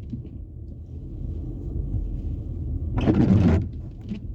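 Steady low road and engine rumble inside a moving car's cabin, with one windshield wiper sweep across the wet glass about three seconds in.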